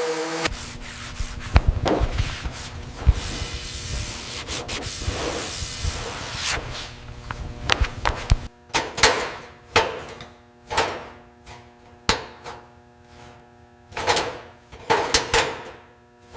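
Rubbing and scraping strokes on a surface, over a steady hum. About eight and a half seconds in, the continuous rubbing gives way to separate swipes with short quiet gaps between them.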